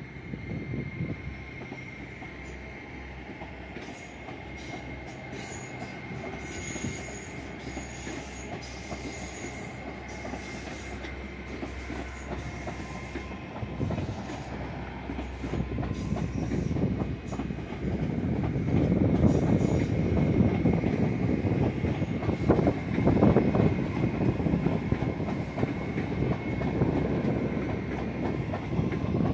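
GWR Class 802 bi-mode train pulling away under diesel power, running with a low rumble and a thin, steady high squeal. The clatter of the wheels over rail joints and points grows as the coaches pass and is loudest about two-thirds of the way through.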